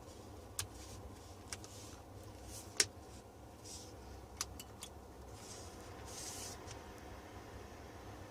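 About six short, sharp clicks and taps, scattered and uneven, the loudest about three seconds in, over a steady low hum.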